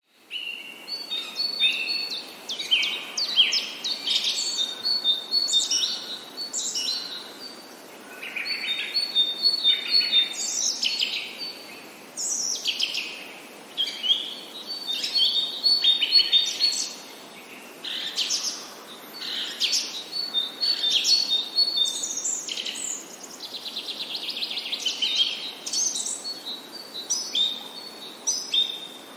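Songbirds singing: high chirps, whistled notes and trills in phrases a few seconds long, with short pauses between them.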